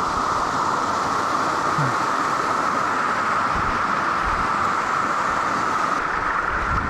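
Waterfall rushing steadily, a constant loud roar of falling water.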